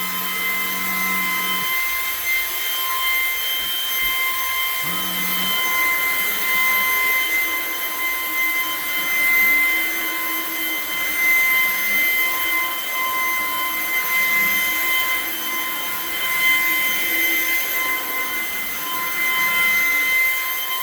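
Portable vacuum cleaner running with a steady high-pitched motor whine as it is passed over a throw rug, its lower tone shifting now and then as the nozzle moves.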